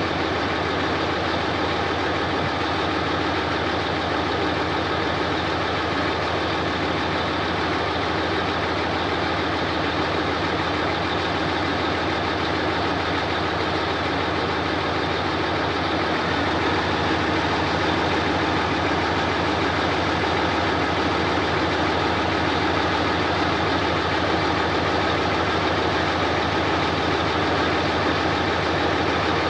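Heavy diesel engine of earthmoving machinery running steadily, getting a little louder about halfway through.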